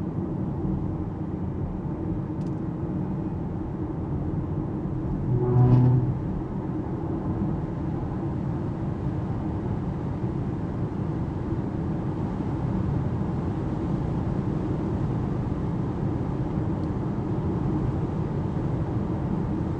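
Cabin noise of an Alpine A390 electric car cruising on an expressway: steady tyre and road rumble, with no engine note. About six seconds in there is a short low-pitched tone lasting about half a second.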